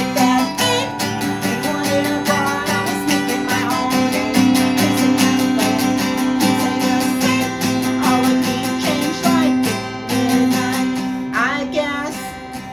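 Acoustic guitar strummed steadily as song accompaniment, with brief wordless singing in places, clearest near the end.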